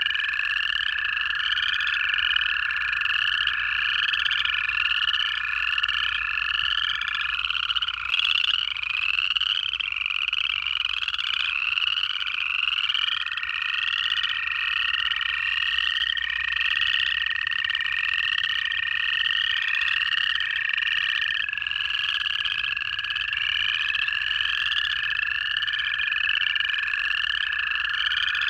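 A dense chorus of upland chorus frogs giving rapid, overlapping ascending trills, about three a second. Under them, long steady trills of American toads run for several seconds at a time.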